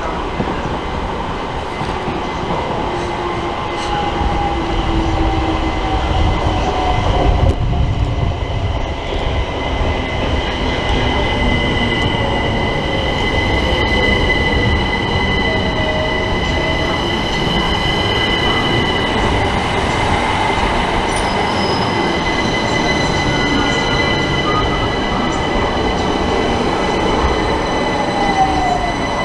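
Electric multiple-unit passenger train running at the station, its low rolling rumble loudest about seven seconds in. Its motor whine glides down in pitch several times, over a steady high-pitched squeal from the wheels or brakes.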